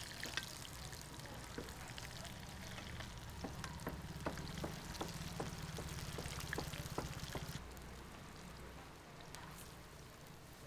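Food sizzling as it fries in oil, with a run of about a dozen light clicks in the middle; it gets a little quieter after about seven and a half seconds.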